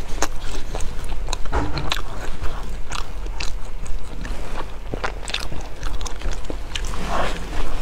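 Close-up biting and chewing of a golden fried pastry, with irregular crunchy clicks and wet mouth sounds.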